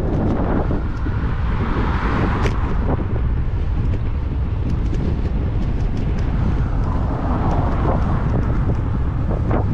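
Wind buffeting a bike-mounted action camera's microphone while riding, with road traffic swelling past about a second in and again near the end.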